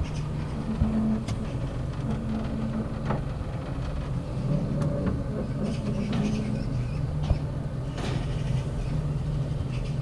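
A steady low mechanical hum with a few scattered clicks.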